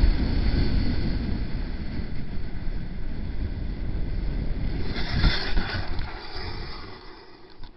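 Steady rumble of a moving vehicle with wind buffeting the microphone, slowly fading. About five seconds in there is a brief thump and a burst of hiss, and the rumble dies away near the end.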